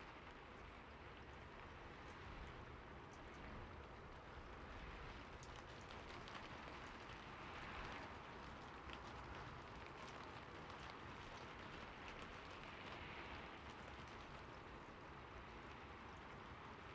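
Steady rain falling on a roof: an even hiss with fine scattered drop ticks, swelling a little every few seconds.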